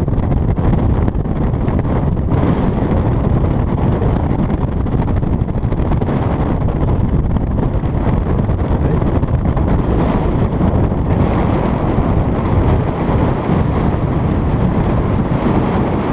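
Gale-force wind buffeting the microphone: a loud, steady low rumble of wind noise.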